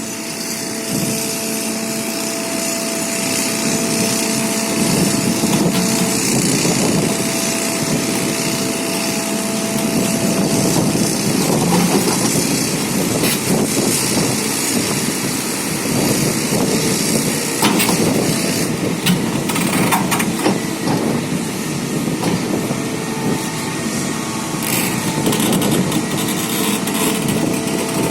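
Excavator's diesel engine running under load, with a steady whine over roughly the first ten seconds and a few sharp knocks past the middle.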